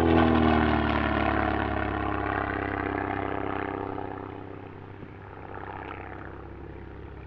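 SIAI-Marchetti SF.260's 260-horsepower Lycoming piston engine and propeller passing by, the pitch dropping as it goes, then fading to a quieter steady drone about four to five seconds in.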